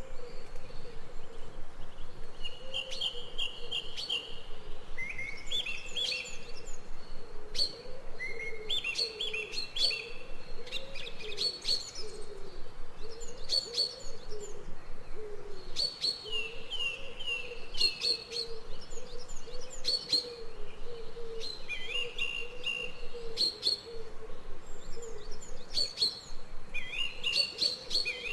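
Forest birds singing: short chirping phrases repeated every couple of seconds, over a continuous low warbling call.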